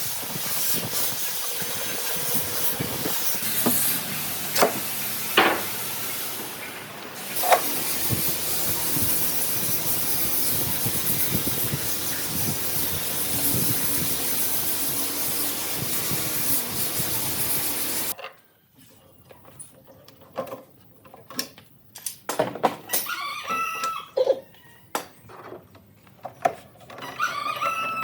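Steady loud hissing, broken by a few sharp clicks, that cuts off abruptly about two-thirds of the way in. It is followed by scattered light knocks and a few short, high calls.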